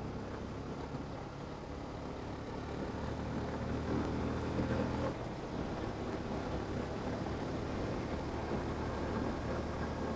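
Yamaha FZ motorcycle engine running under way. It grows louder about three seconds in, then drops off suddenly about two seconds later and carries on steadily.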